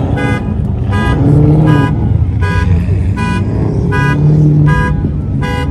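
A car alarm going off: the horn honks in a steady rhythm, one short honk about every three-quarters of a second, over a low rumble.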